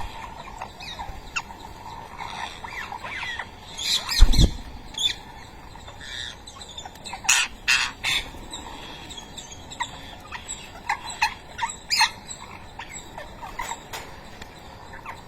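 A group of ringneck parakeets calling: many short chirps and squawks, scattered and overlapping, with a few louder squawks. A loud bump about four seconds in is the loudest sound.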